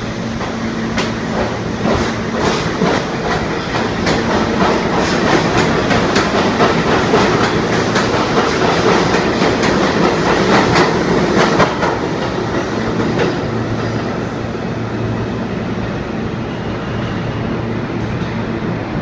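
R62A subway train running through the station, its wheels rattling and clicking rapidly over the rail joints with a continuous rumble. About two-thirds of the way through, the clicks die away and a steadier rumble with a low hum remains.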